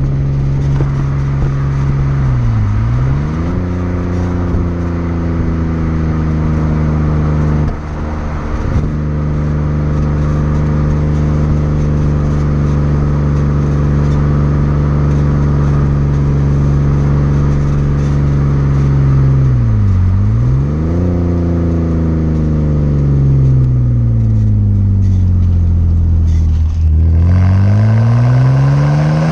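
2006 BMW 330i's 3.0-litre straight-six running through a Rogue Engineering aftermarket exhaust, held at steady revs for long stretches. Twice the revs dip sharply and quickly recover. Later the engine note sinks slowly, then climbs steadily as it revs up near the end.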